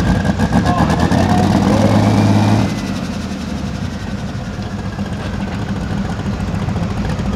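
Pro Stock pulling tractor's engine running loud and steady, then easing off about two and a half seconds in to a lower, steady idle.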